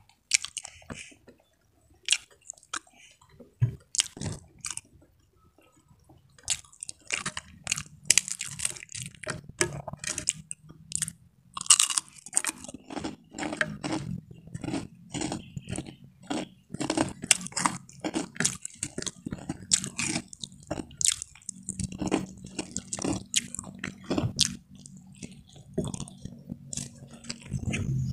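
Close-up chewing and crunching of a meal eaten by hand. Crisp fried crackers (kerupuk) and rice with greens are being chewed. The crunches come only now and then at first and turn rapid and continuous from about seven seconds in.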